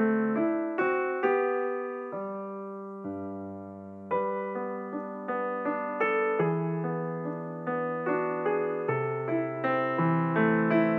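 Background piano music, gently paced: notes struck and left to ring, slowing to a few long held notes around the second to fourth second before picking up again.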